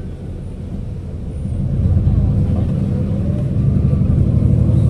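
City bus engine running, heard from inside the cabin, its low rumble growing louder about one and a half seconds in as the bus pulls away, with a faint rising whine.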